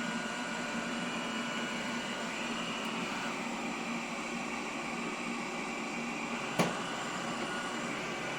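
Roomba Combo Essential robot vacuum running with a steady whir and a faint hum. A single sharp knock comes about six and a half seconds in.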